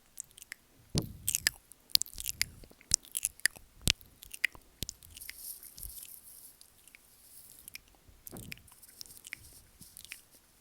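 Close-miked ASMR mouth sounds: wet clicks and smacks of licking and nibbling at the microphone. They are densest in the first few seconds, sparser after, with another cluster near the end.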